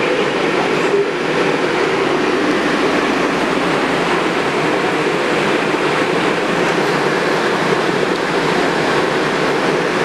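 MARTA CQ310/CQ311 rapid-transit train running at a steady level, a constant rumble and rail noise that neither builds nor fades.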